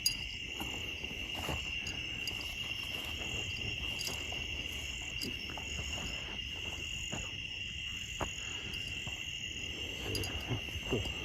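Steady chorus of night insects, a continuous high-pitched trill that holds one pitch, with a few faint clicks and rustles.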